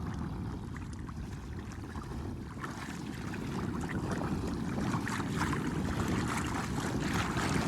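Wind buffeting the microphone over water lapping and splashing, a steady rushing noise that slowly grows louder.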